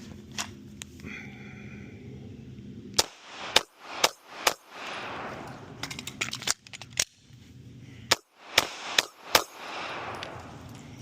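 Airsoft pistol fired four times in quick succession, about half a second apart, then a string of smaller clicks from a magazine change, then four more shots: a draw, fire four, reload, fire four drill.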